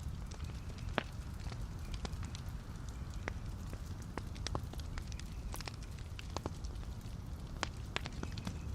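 Wood logs burning in a fireplace: a steady low rumble of flame with irregular sharp crackles and pops, the strongest pop about a second in.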